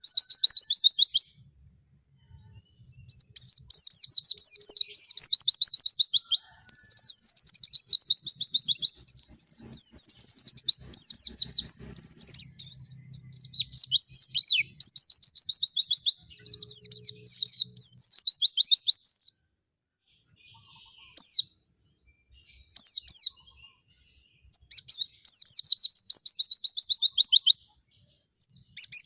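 Pleci (white-eye) singing in long runs of very fast, high trilled chatter, broken into phrases with short pauses; the song thins to short snatches about two-thirds of the way in before a full phrase returns near the end.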